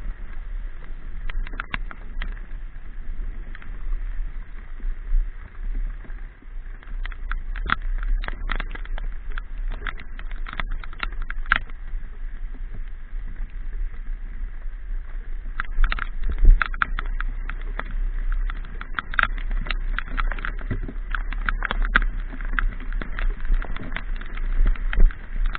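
Riding a motorcycle in the rain: a steady low rumble of wind and the bike under way, with many sharp irregular ticks of raindrops striking the microphone, thickest a third of the way in and again from about two-thirds on.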